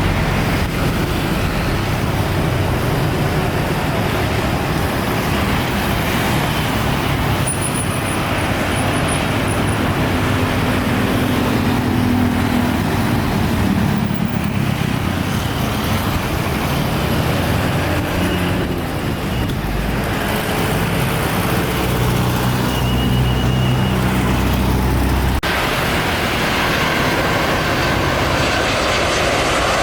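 Jet airliner engines at an airport: a loud, steady rush with low drones that shift slowly in pitch. The sound changes abruptly about 25 seconds in.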